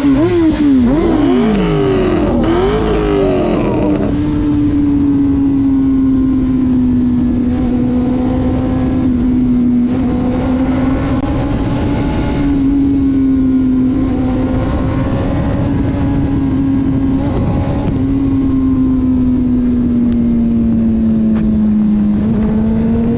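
Vehicle engine on a highway run. It revs up and drops several times in quick succession as it pulls through the gears over the first few seconds, then settles into a steady cruising drone that rises and falls only slightly.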